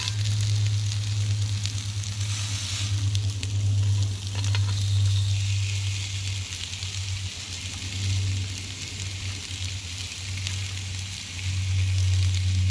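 Beef burgers and sliced onions sizzling on a hot cast iron griddle as the burgers are turned over, with a louder burst of sizzle about two seconds in. A steady low hum runs underneath.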